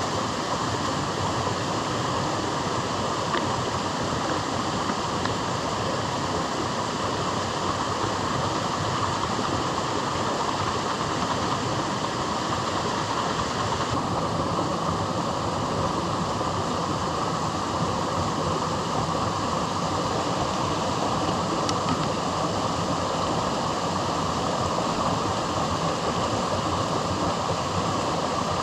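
Steady rushing noise of strong wind and rain, constant in level with no let-up.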